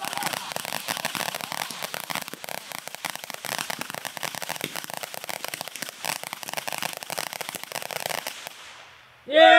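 Consumer fireworks crackling in a dense, rapid string of pops that thins out and stops near the end.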